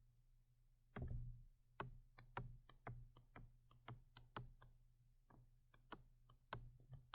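Faint, irregular clicking, two or three sharp clicks a second starting about a second in, over a low steady hum.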